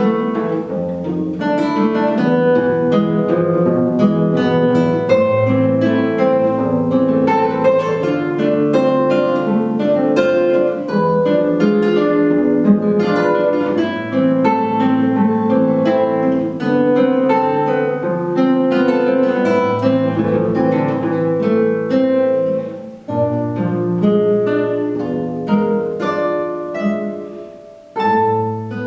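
Two guitars playing a duet, plucked notes throughout, with a brief break about twenty-three seconds in and another near the end.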